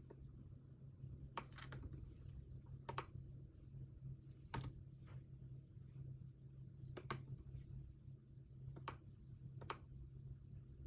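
Occasional keystrokes on a computer keyboard: single clicks and short runs of two or three, a second or two apart, over a steady low hum.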